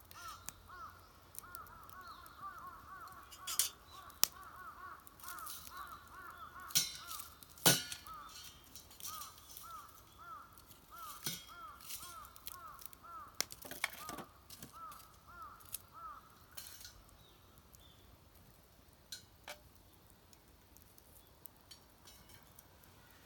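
A bird calling in a fast run of short repeated notes for about sixteen seconds, over scattered sharp cracks and pops from the wood fire in a fire pit, with the loudest crack a little under eight seconds in.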